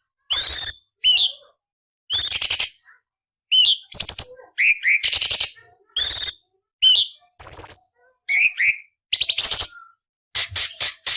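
Cucak cungkok leafbird singing a rapid string of harsh, rasping notes mixed with sharp up-curling chirps, each phrase under a second long with short gaps between.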